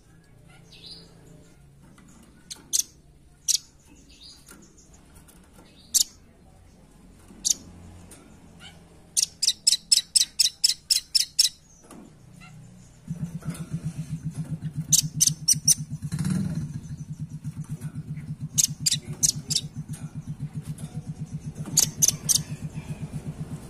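Velvet-fronted nuthatch (red-billed rambatan) calling: sharp high single notes at first, then fast rattling runs of about six notes a second, repeated several times. From about halfway, a low, fast pulsing hum runs underneath.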